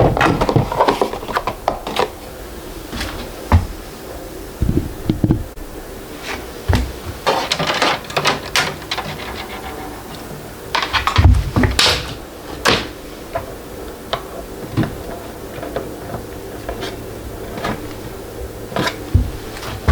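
Irregular knocks, clunks and rustling as a new 3D printer's packaging and parts are handled, with a louder cluster of rustles and knocks about halfway through.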